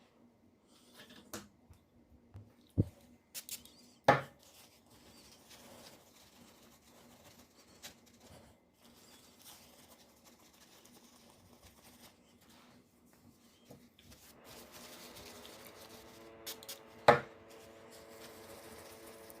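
Laptop parts being handled during disassembly: scattered clicks and knocks of small pieces, the loudest about 4 s and again about 17 s in. A steady hum with several tones sets in about three-quarters of the way through.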